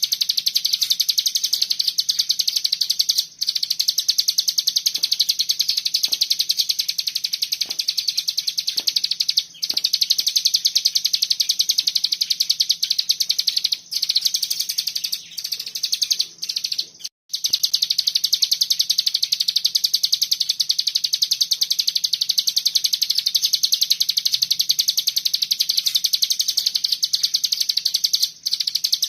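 Ciblek gunung (cigun) songbird singing its dense 'ngebren' song: a continuous, very rapid run of high notes, broken only by a few brief pauses. A faint steady low hum lies underneath.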